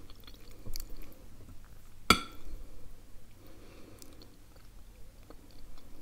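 Close-miked chewing and wet mouth sounds of someone eating creamy spaghetti, with one sharp, ringing clink of a metal fork against the ceramic plate about two seconds in.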